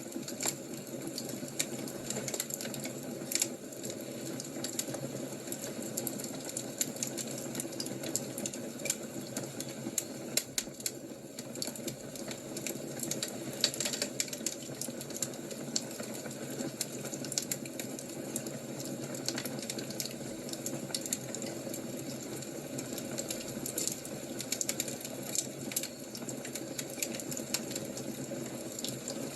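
Fire crackling: irregular sharp pops and snaps over a steady hiss.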